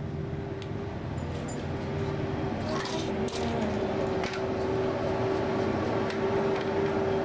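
A steady mechanical hum with a steady mid-pitched whine, and a few light clicks about three to four seconds in.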